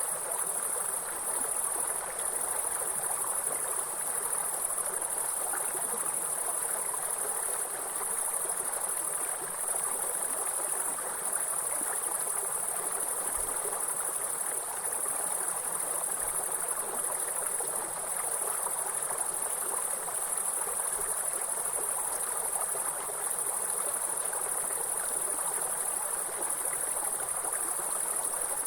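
Steady, high-pitched chorus of insects trilling without a break, over the even rushing of a flowing water stream.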